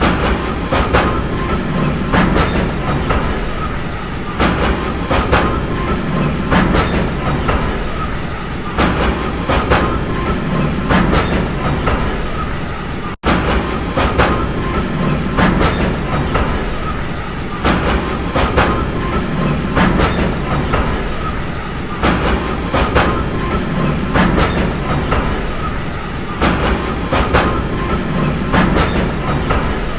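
Train running along the track, a steady rumble with the wheels clicking over the rail joints again and again. The sound drops out briefly about thirteen seconds in.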